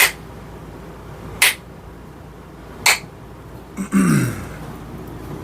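Three short, sharp strokes of a hand tool on a black locust hammer handle as it is rounded off, about a second and a half apart. Near the end comes a louder, brief sound that falls in pitch.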